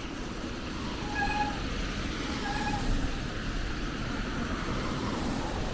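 Steady city traffic noise, with two short pitched beeps about a second apart early on and a vehicle passing near the end.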